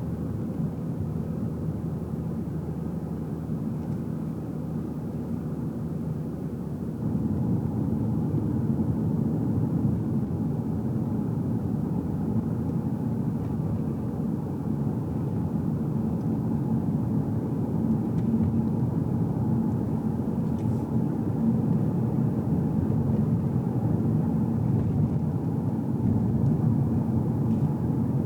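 A car's engine and tyre-on-road noise heard from inside the cabin while driving, a steady low rumble with a faint hum, which grows louder about seven seconds in.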